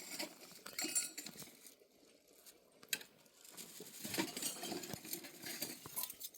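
Scattered light clicks and clinks of small hard objects being handled, with a quieter stretch in the middle.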